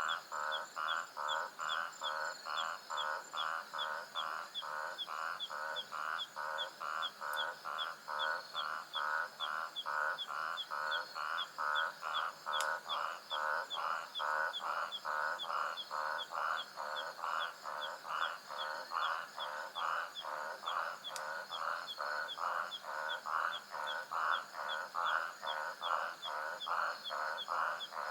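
Night savanna chorus: an animal call repeated steadily about twice a second, over continuous high-pitched insect trilling.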